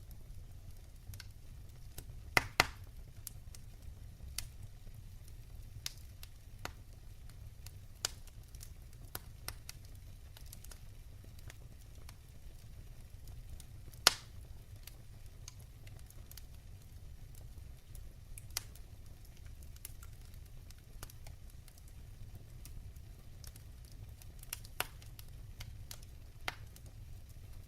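Wood fire burning in a fireplace: a low steady rumble with scattered sharp crackles and pops, the loudest a pair about two and a half seconds in and a single pop about fourteen seconds in.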